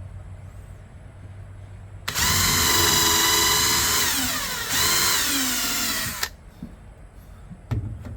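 Power drill boring a hole in wood. The motor whines at a steady high pitch for about two seconds, sags in pitch as it slows, speeds back up briefly and then stops. A single knock follows near the end.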